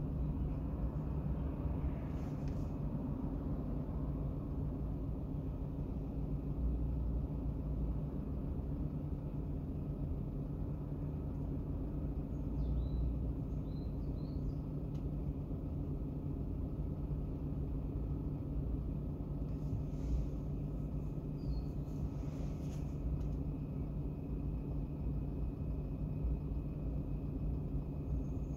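Steady low drone of a car idling at a standstill, heard from inside the cabin, with a few faint high chirps partway through.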